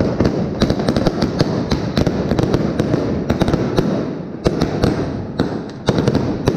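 Street fireworks and firecrackers going off: many sharp bangs in quick, irregular succession, overlapping over a continuous crackle.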